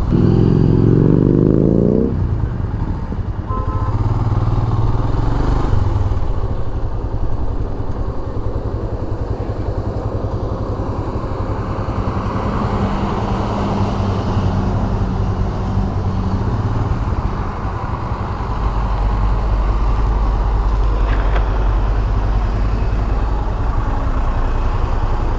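Motorcycle engine running under way with wind and road rush. In the first two seconds the engine revs up, its pitch climbing, then it settles into a steady low drone that grows deeper and stronger about eighteen seconds in.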